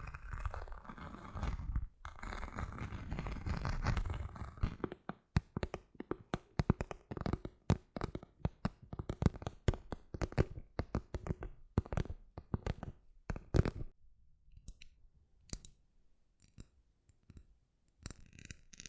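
ASMR trigger sounds made by hand: a few seconds of dense scratching and rubbing, then a long run of sharp, irregular taps or clicks, several a second, which thin out to a few faint ticks over the last few seconds.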